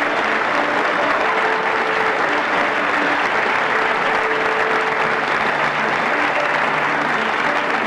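Steady applause, with faint music underneath.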